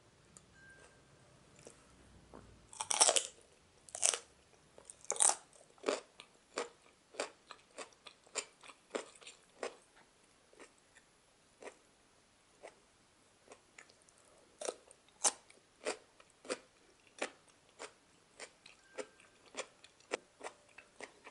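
Raw broccoli and celery stick being bitten and chewed: a loud crisp bite about three seconds in, then regular crunches about one and a half a second, thinning out for a few seconds midway before picking up again. It is the crisp crunch that Japanese calls "pari-pari".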